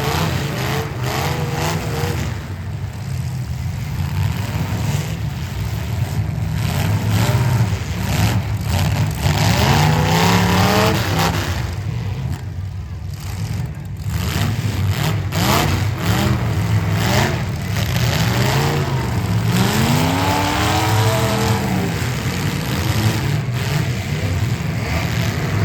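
Demolition derby car engines running and revving hard again and again, with scattered bangs of cars hitting.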